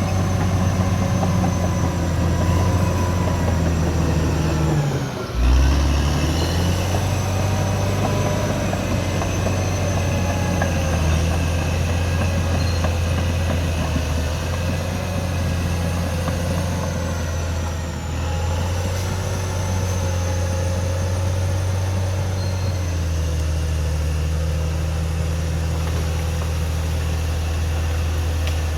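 CAT D6R XL bulldozer's diesel engine running steadily under load, with a brief dip and surge in engine note about five seconds in.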